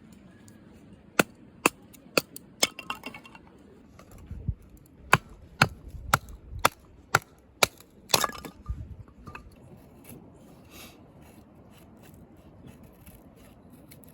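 Sharp, regular tool strikes about two a second, a run of four and then a run of six, followed about eight seconds in by a louder hit with a short crackling tail, as of wood cracking or splitting.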